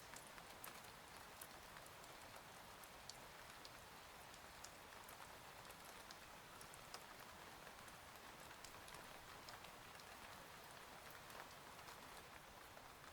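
Faint, steady rain ambience, the rain-on-a-cabin-window bed of the track, with scattered drops ticking through an even hiss.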